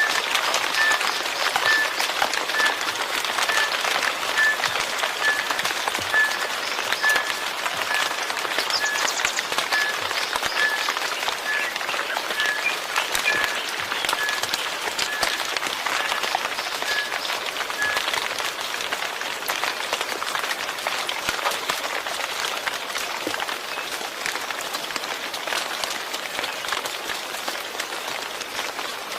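Steady rain falling: a dense, even hiss with many individual drops ticking. A short, high pip repeats about once a second through roughly the first eighteen seconds, then stops.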